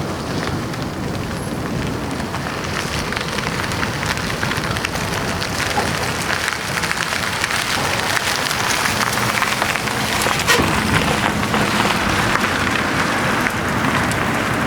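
Boeing 757 jet engines: a steady crackling rumble that grows slowly louder, with a faint steady hum joining about two thirds of the way in.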